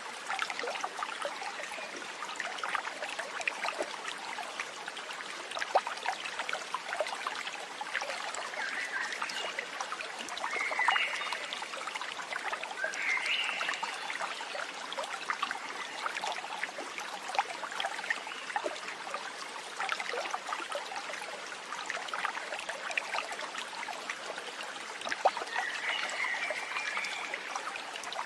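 Running water trickling and babbling without a break, like a small stream, with a few short chirping animal calls a few times over.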